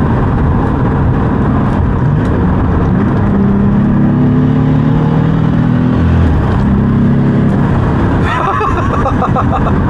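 Mercedes OM606 inline-six turbo diesel, swapped into a BMW E28, pulling hard under full acceleration, heard from inside the cabin. Its note rises steadily, drops sharply about six seconds in as a gear is changed, then climbs again.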